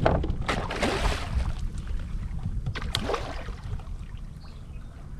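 Strong wind buffeting the microphone in a steady low rumble, with water splashing twice, about half a second in and again around three seconds in.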